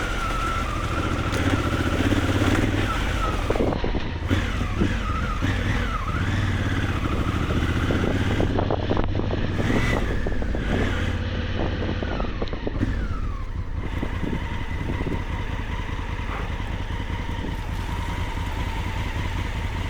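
Motorcycle engine running under load on an off-road climb, its revs rising and falling, with the most changes in pitch a few seconds in.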